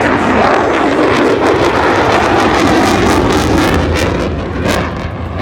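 Engine of an aerobatic propeller airplane, loud and steady at high power, easing off a little near the end.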